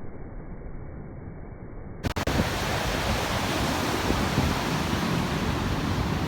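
Strong wind on the microphone with sea surf breaking on the shore. About two seconds in it cuts abruptly from a muffled low rumble to a louder, fuller rush of wind and waves.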